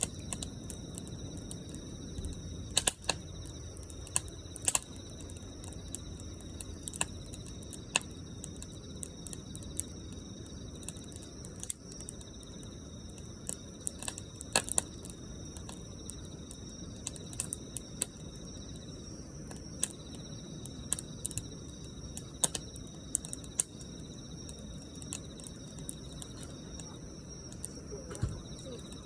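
Wood campfire crackling: irregular sharp pops and snaps over a low steady rush of the flames.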